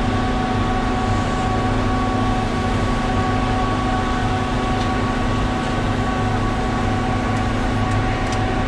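Concrete mixer truck's diesel engine and turning drum running steadily while it discharges flowable fill, a constant drone with a few held whining tones.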